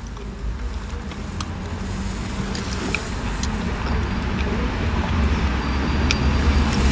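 Frozen cornstarch being chewed, with a few short crunching clicks over a steady low rumble inside a car that slowly grows louder.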